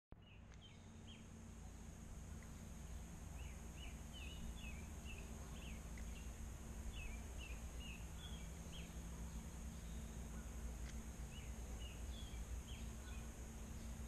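Faint outdoor ambience: a small bird chirping in short, quick notes, in runs through most of the stretch, over a steady low hum.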